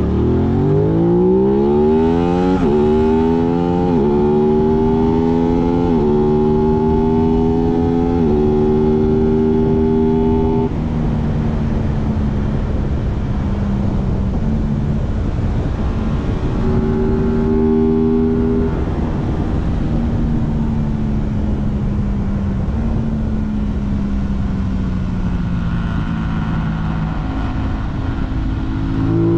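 Aprilia 660 parallel-twin motorcycle engine accelerating hard, its pitch climbing and dropping back sharply with each of several quick upshifts. It then eases off, pulls briefly again, and winds down slowly in pitch before picking up near the end, over steady wind rush.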